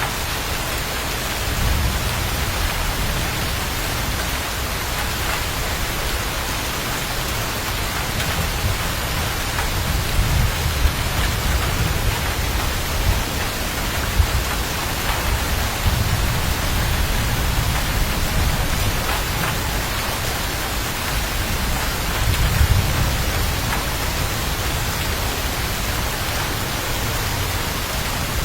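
Steady heavy rain falling, with low rumbles of distant thunder swelling up several times.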